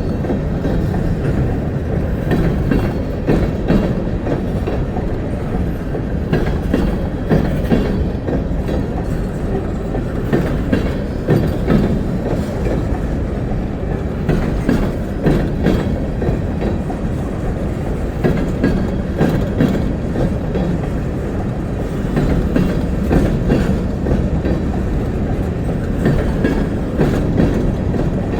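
Train cars rolling steadily past at low speed, their wheels rumbling and clacking irregularly over the rail joints.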